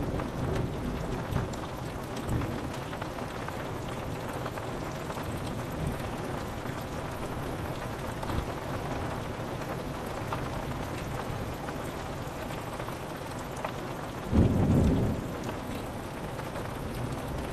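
Steady rain pattering on window glass, with a short, deep roll of thunder about fourteen seconds in, the loudest moment, and fainter low rumbles near the start.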